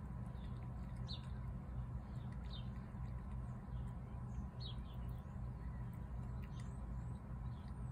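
Small birds chirping now and then, short high chirps that fall in pitch, over a steady low rumble.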